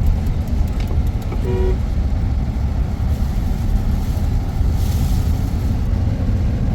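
Steady low rumble of a vehicle on the move, with a short horn toot about a second and a half in.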